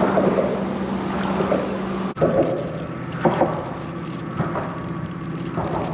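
A motor running steadily over water splashing and lapping, with an abrupt cut about two seconds in and a few short splashes after it.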